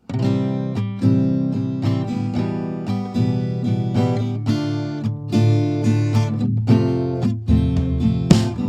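Background music: strummed acoustic guitar, starting suddenly.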